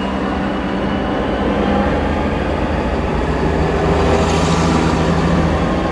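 Diesel tractor engines running steadily as the lit-up tractors pass, heard from inside a car, with a brief hiss about four seconds in.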